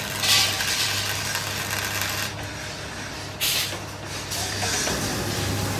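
Steady low machine hum under a hissing noise that swells and fades, typical of factory machinery running.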